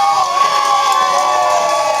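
Wrestling crowd in a hall cheering and yelling, with many long held shouts overlapping.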